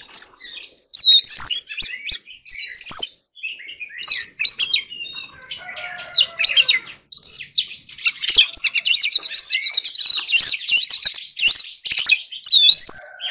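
Oriental magpie-robin singing: loud, varied whistled phrases with quick up-and-down notes, turning into a fast, dense run of notes in the second half.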